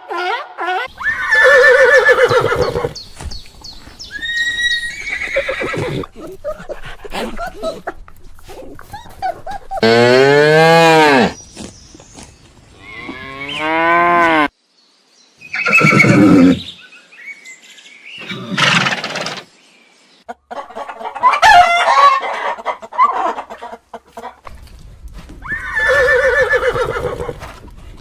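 A run of calls from several different animals, one after another with abrupt cuts between them; some calls are pitched and drawn out, others short and rough.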